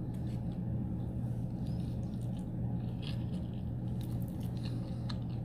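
A person quietly chewing rotisserie chicken, with a few soft mouth clicks from about three seconds in, over a steady low hum.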